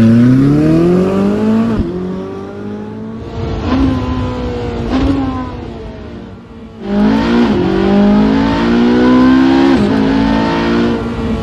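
Exhaust of a Ferrari 458 Speciale's 4.5-litre naturally aspirated 90° V8, heard from outside the car at high revs over 5000 rpm, accelerating hard. Its pitch climbs and drops back with each quick upshift. It eases off about five seconds in, then comes back loud and pulls through more upshifts.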